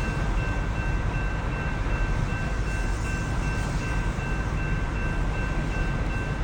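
A train rolling past: a steady low rumble with two thin, steady high tones over it.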